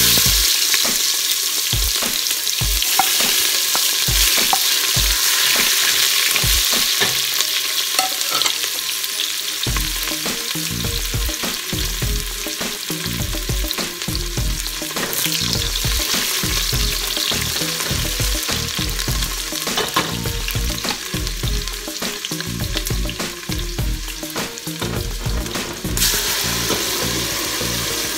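Diced onion frying in hot oil in a stainless steel pot. The sizzle starts loud as the onion hits the oil and keeps going under stirring with low knocks against the pot. It brightens again a couple of seconds before the end, as more ingredients are poured in.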